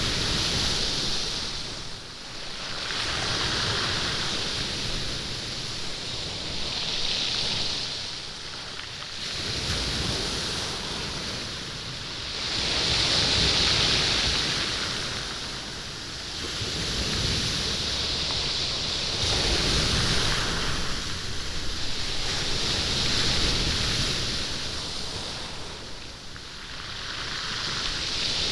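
Waves washing over a stony beach, rolling and rattling the beach stones, in swells that rise and fall every few seconds.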